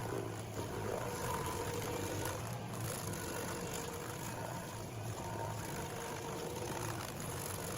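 Heavy machine running steadily, a constant low engine hum with an even noisy wash over it.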